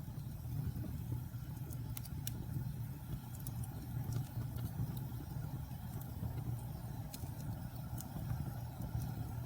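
Logs burning in a fireplace: a steady low rumble with scattered sharp crackles and pops every second or so.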